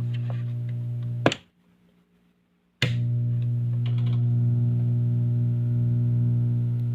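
Speaker putting out a loud, steady electrical hum with many overtones: the unwanted hum fault. It cuts off with a click a little over a second in, goes almost silent, and comes back with another click about a second and a half later.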